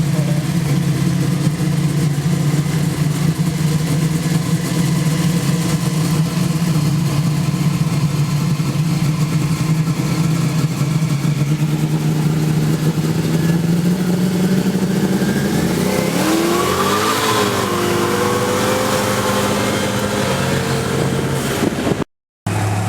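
Twin-turbo Ford BA Falcon XR8 V8 running at a steady note, then revving, its pitch rising and falling about 16 seconds in. The sound drops out for a moment near the end.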